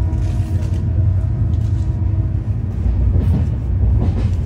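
Steady low rumble of a passenger train running at speed, heard from inside the coach, with another train running close alongside on the next track.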